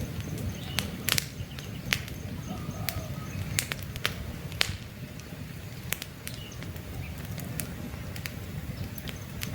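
Campfire burning: irregular sharp crackles and pops of burning wood over a steady low rumble of flame, with faint bird calls in the background.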